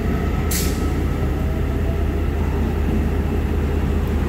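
Taiwan Railway EMU900 electric commuter train pulling out along the platform: a steady rumble of wheels and running gear, with a short hiss of air about half a second in.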